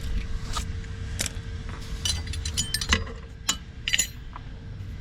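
Scattered metallic clinks and knocks of hand tools and parts being handled during a car brake job, quickest and most frequent around the middle, over a faint steady hum.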